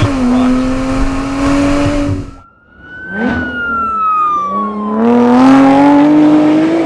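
Lotus Exige V6 Sport 350's supercharged V6 accelerating hard, its note climbing and dropping at an upshift. Partway through, a car sweeps past at speed with its engine note falling in pitch, then the V6 pulls hard again and drops at another upshift near the end.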